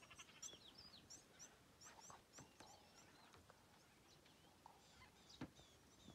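Faint chirping of small birds, quick high chirps repeating through, with a few soft sharp knocks, the loudest about five and a half seconds in.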